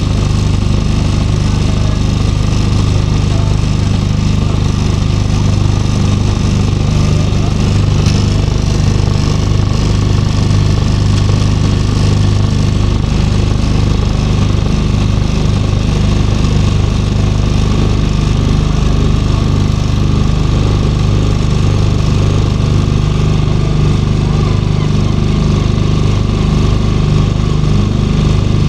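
A small hired motor boat's engine running steadily, an even low drone with no change in speed.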